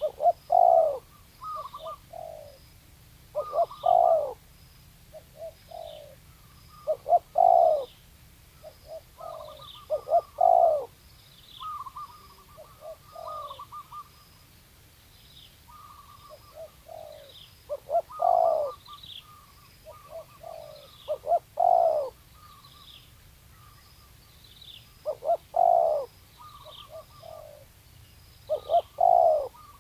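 Spotted dove (tekukur) cooing: a phrase of a few notes repeated about every three to four seconds, used as a call to lure wild doves. Faint short high chirps repeat about once a second underneath.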